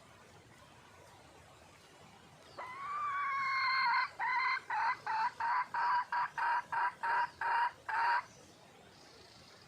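Red junglefowl hen calling: a couple of seconds in, one drawn-out note rising slightly in pitch, then a run of about ten short quick notes, two or three a second, that stops abruptly. A hen's call for a mate.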